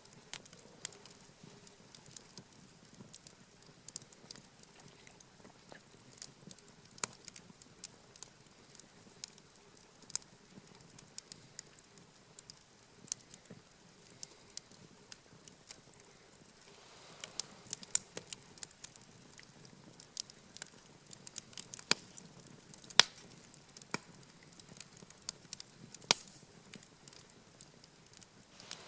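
Campfire burning with irregular crackles and sharp pops of burning wood, growing busier past the halfway mark, with one loudest pop about two-thirds of the way in.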